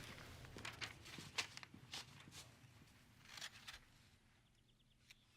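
Faint footsteps with scattered small knocks and rustles of someone moving about a room, dying down in the last second or two.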